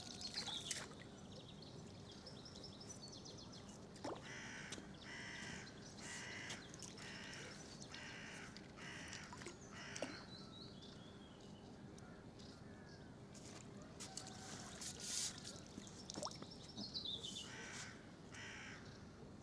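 Birds calling: one gives a run of harsh calls a little over half a second apart starting about four seconds in, and a few more near the end, while smaller birds chirp and whistle in high, falling notes.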